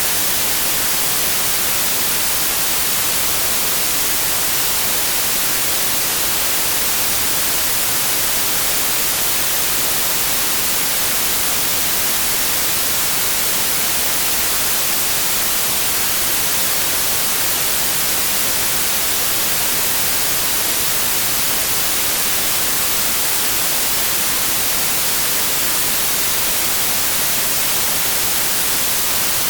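Steady, unbroken white noise: an even hiss with no tones, rhythm or changes, bright and strongest in the high frequencies.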